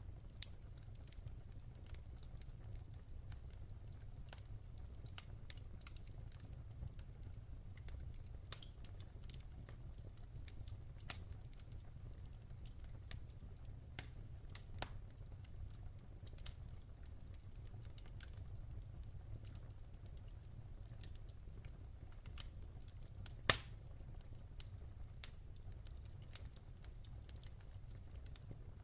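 Campfire burning with a low steady rumble and frequent irregular crackles and pops from the burning wood, one sharper pop standing out about two-thirds of the way through.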